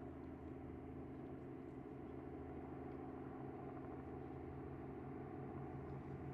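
Steady engine drone with a low hum made of several held tones.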